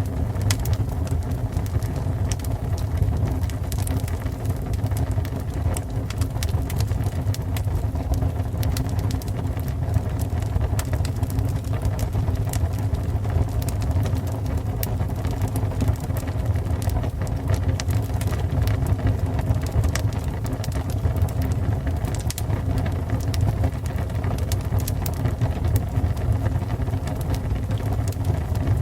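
Fire burning with a steady low rumble and frequent sharp crackles and pops.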